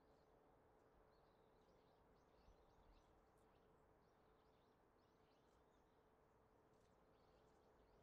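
Near silence with faint, scattered chirps of small birds and a faint steady hum underneath.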